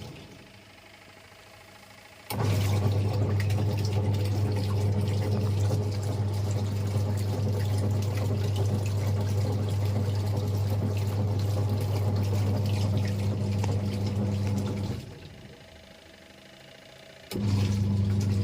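Toshiba twin-tub washing machine's wash motor humming as it churns the water in the wash tub. It stops just after the start, runs again from about two seconds in, pauses near the end and starts up once more, in the usual stop-and-reverse rhythm of a twin-tub wash cycle.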